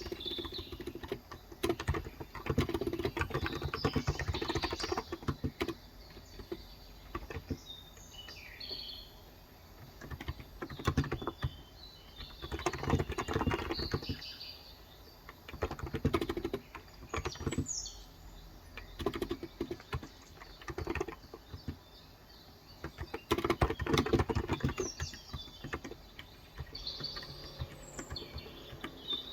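Typing on a Cox Endeavor electro-capacitive (contactless) 35 g tenkeyless keyboard, in bursts of quick keystrokes separated by short pauses. Birds chirp in the background, with a few short falling chirps.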